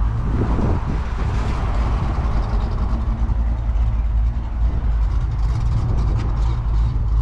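Car engine running at low revs, a steady low rumble, with a brief rise and fall in pitch about half a second in.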